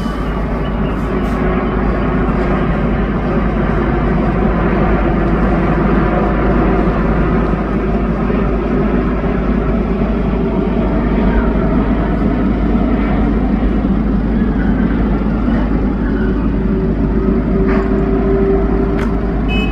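Airbus A330 freighter's twin jet engines running, a loud steady roar with a faint humming tone that comes and goes.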